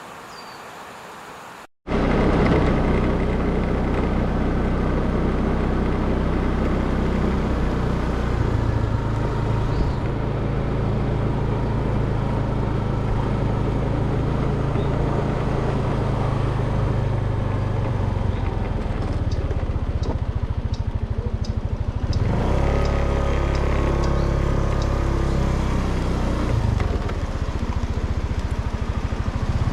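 A motor vehicle's engine running while driving, steady and loud, its pitch shifting a couple of times. It starts abruptly about two seconds in.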